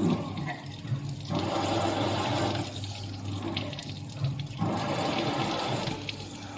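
CNC drilling and tapping machine working a 15 mm steel plate: a steady hum with a hiss over it that swells and fades every couple of seconds, in step with the machining cycle.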